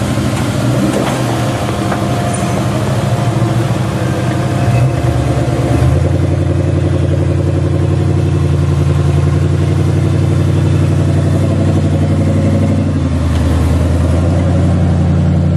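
Off-road 4x4 engine running under load, its pitch shifting about six seconds in and again near the end as the throttle changes.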